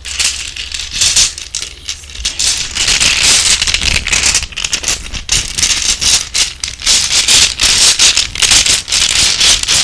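Close-miked ASMR trigger sound: a fast, dense, crackling rattle made of many quick strokes right at the microphone, louder from about three seconds in.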